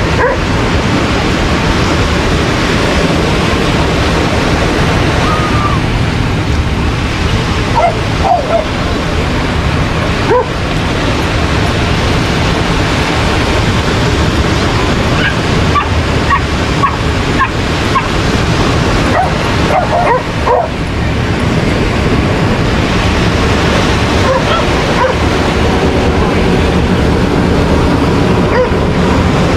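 Dogs barking and yipping in short scattered calls over a loud, steady rush of surf and wind.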